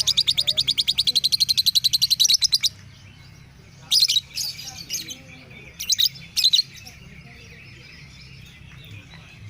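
Lovebird calling: a long, fast, even run of high chirps for the first few seconds, then a few short bursts of chirps, then quiet for the last few seconds.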